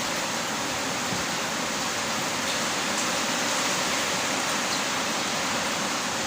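Heavy rain falling, a steady, even hiss with a few faint scattered ticks.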